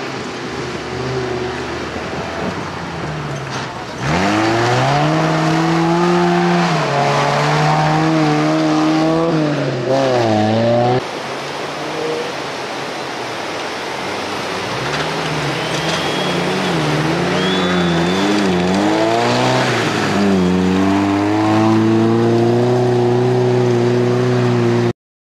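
Off-road race vehicle engines revving hard, climbing in pitch and dropping back again and again as they accelerate and shift. The sound breaks off and changes abruptly about 4 and 11 seconds in, and cuts off suddenly near the end.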